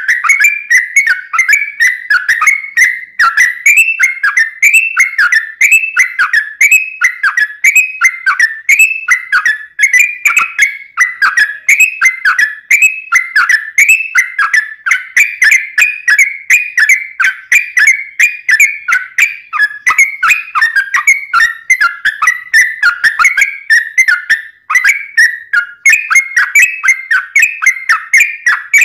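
Yellow-vented bulbul (trucuk) singing a long, unbroken run of bubbly whistled notes, each sliding down and back up in pitch, repeated quickly without a pause.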